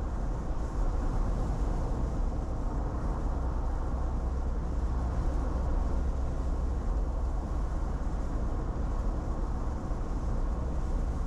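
Steady road and tyre noise with a deep rumble inside the cabin of a car driving along a road.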